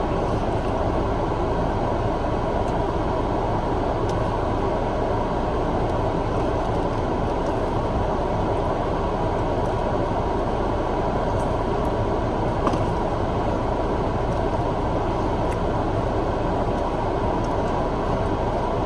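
Steady, even low rumbling noise that holds at one level throughout, with a few faint clicks.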